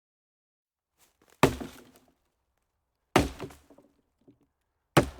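Three sharp knocks, evenly spaced under two seconds apart, each with a short ringing decay.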